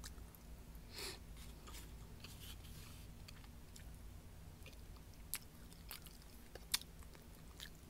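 A person quietly chewing a mouthful of food, with a few short sharp clicks scattered through it.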